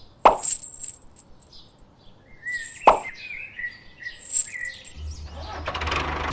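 Short bird-like chirps, broken by two sharp pops, one just after the start and one about three seconds in. A low steady hum comes in near the end.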